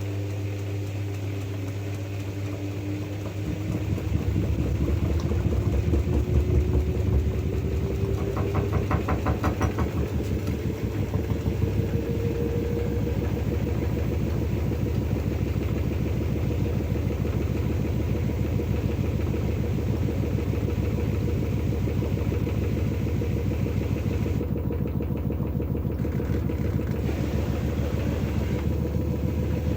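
LG F12A8ND front-loading washing machine spinning its drum up. The motor's whine rises in pitch for the first dozen seconds and then holds steady, over a rhythmic low hum from the turning drum that grows louder about four seconds in.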